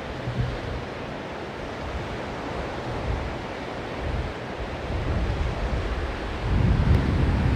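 Sea surf washing on the beach, with wind buffeting the microphone in low rumbling gusts that grow stronger near the end.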